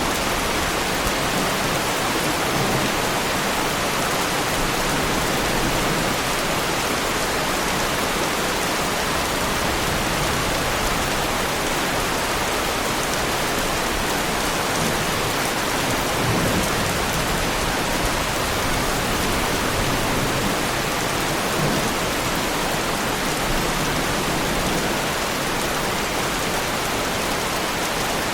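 Heavy rain falling steadily on a car, an even hiss of many drops with no let-up.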